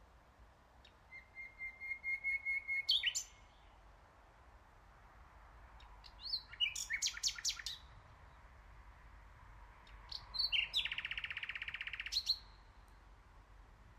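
Nightingale singing: three separate phrases with pauses between them. The first is a run of repeated notes that grows louder, the second a quick series of sharp high notes, and the third a fast rattling trill near the end.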